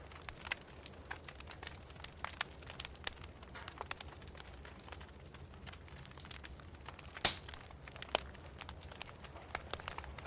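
Wood fire in a fireplace crackling, with irregular pops and snaps over a faint low rumble. The sharpest pop comes about seven seconds in, and another follows about a second later.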